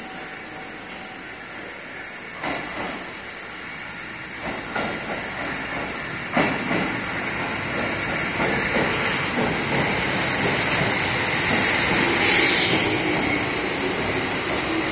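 Kotoden 1250-series electric train running in alongside the platform, its rumble growing as it nears, with sharp clacks of wheels over rail joints. A short hiss comes about twelve seconds in, then a falling whine as it slows to a stop.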